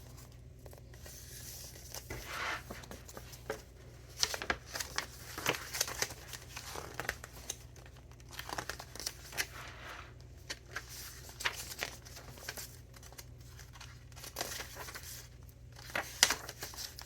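Pages of a thick handmade junk journal being turned and handled: paper and card rustling and crinkling in irregular strokes, some louder than others.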